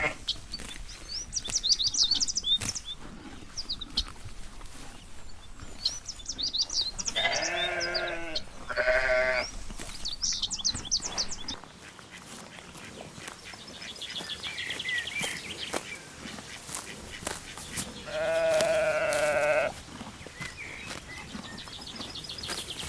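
Sheep bleating three times: two wavering bleats close together about a third of the way in and one longer bleat near the end. Short high bird chirps come and go in the first half.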